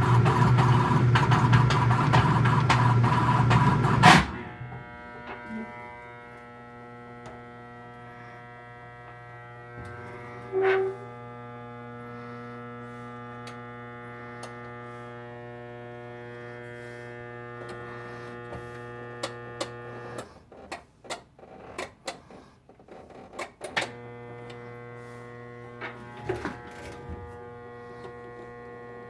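Whirlpool direct-drive washing machine running: a loud, rough grinding noise for about the first four seconds, then a steady electric motor hum with scattered clicks and pops, the hum cutting out briefly twice in the last third. The clacking and popping come with a machine that spins but will not drain.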